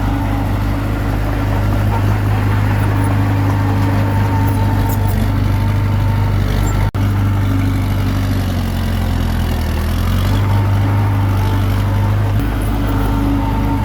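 Komatsu D21P bulldozer's diesel engine running steadily under work. The engine note sags for a couple of seconds a little past halfway, then picks up again. The sound breaks off for an instant about seven seconds in.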